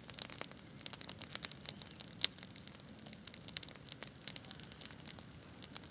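Campfire burning wood, crackling with irregular sharp pops, one louder pop about two seconds in.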